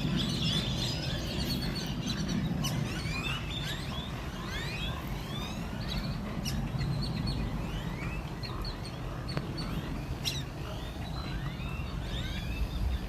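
A flock of birds calling at once: many short, rising chirps overlapping throughout, over a steady low rumble.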